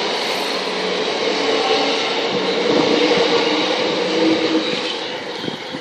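London Overground Class 378 electric multiple unit pulling out of the station, its motors and wheels on the rails making a steady running noise with a faint tone, fading near the end as it moves away.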